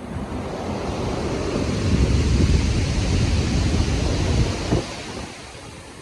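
A storm wave surging and breaking in heavy surf. It swells over the first two seconds, holds for a couple of seconds, and falls away about five seconds in, with a deep rumble under a rushing hiss and wind noise on the microphone.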